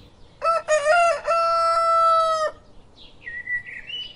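Rooster crowing once: a cock-a-doodle-doo of a few short notes running into a long held final note.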